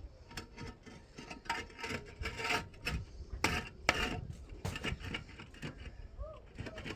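Irregular knocks and scraping of wood: timber being handled and worked, with no steady rhythm.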